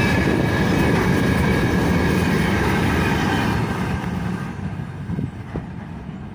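Freight train wagons rolling past with a steady wheel rumble and clatter and a thin steady squeal from the wheels coming out of a curve. The noise dies down about four seconds in, leaving a few scattered clicks.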